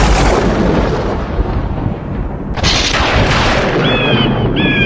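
A loud rumbling boom, with a second surge of noise about two and a half seconds in, then a few short high pitched tones near the end.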